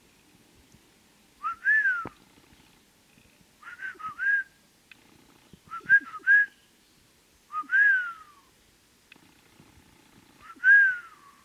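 Bald eagle calling: five bouts of thin, whistled notes that rise and fall. The first bouts are quick runs of two to four notes, and the last two are single, longer notes.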